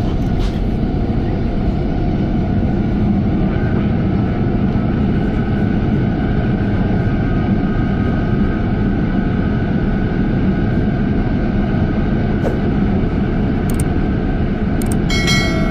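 Jet airliner's engines during a landing: a loud, steady low rumble with a thin whine above it that comes in about four seconds in.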